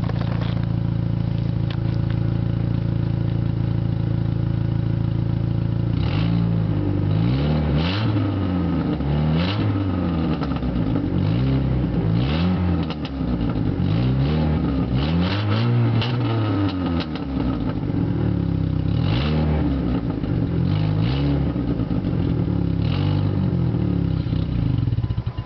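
Neon four-cylinder engine running with no catalytic converter and a leaking exhaust. It idles steadily for about six seconds, then is revved up and down again and again in short blips with a rough, crackly exhaust note, and it stops just before the end.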